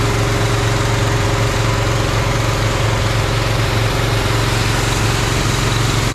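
North Star hot-water pressure washer running steadily: a steady engine hum with a broad, loud hiss over it.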